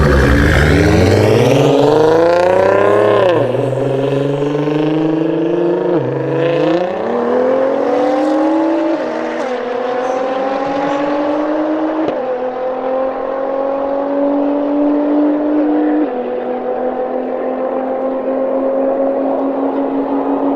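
Nissan GT-R R35's twin-turbo V6 pulling hard up through the gears: the engine pitch climbs and then drops sharply at each upshift, about 3, 6, 9, 12 and 16 seconds in, with each gear lasting longer than the one before.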